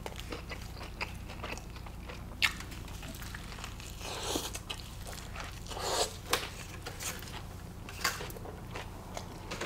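Close-miked eating: a person biting into and chewing an In-N-Out double cheeseburger with lettuce and tomato. Soft wet chewing is broken by scattered clicks and a few louder crunches, about two and a half, four, six and eight seconds in.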